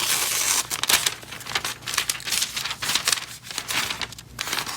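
A dull chef's knife edge dragged through a sheet of paper, which tears and crinkles with a ragged, scratchy sound instead of slicing cleanly: the sign of a very dull edge.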